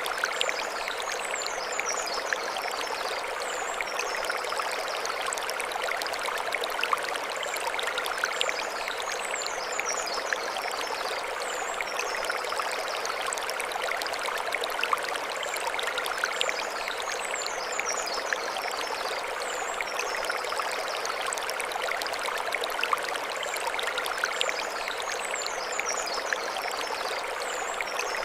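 Mountain stream running over stones, a steady rushing with small splashes, while a short burst of high chirps recurs about every eight seconds.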